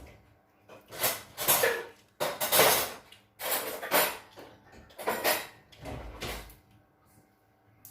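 Dishes and cutlery clattering and scraping during a meal, in about six short, noisy bursts.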